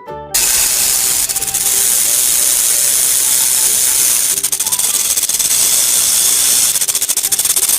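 Snake making its warning sound: a loud, steady, rasping hiss that starts just after the music stops, with stretches of fast rattling clicks in it.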